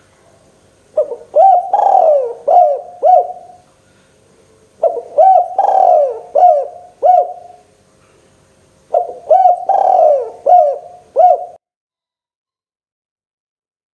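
Spotted dove (tekukur) cooing: three phrases of about five coos each, a few seconds apart.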